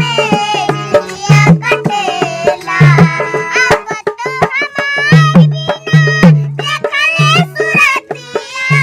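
Bhojpuri folk-style song: a melodic singing voice over a steady hand-drum beat.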